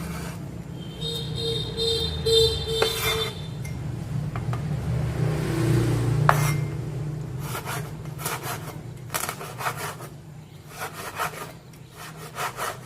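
Knife slicing fish into small pieces on a cutting board: scraping cuts, then a quick run of short strokes in the second half.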